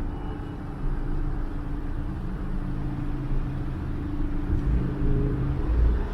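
Street traffic: motor vehicle engines running, with a low rumble that grows louder near the end.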